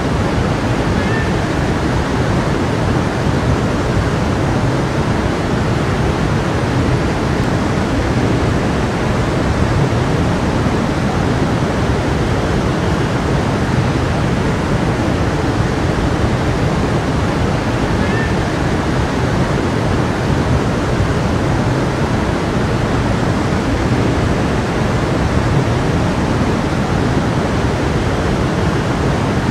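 Water of a small stream running steadily, an even, unbroken rush.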